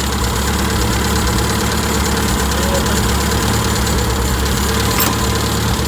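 Toyota 4K four-cylinder engine idling steadily, its ignition timing over-advanced at about 30 degrees before top dead center. A short click about five seconds in.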